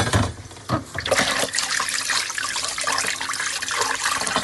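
A sharp knock, then water running from a kitchen tap and splashing, with small clinks through it.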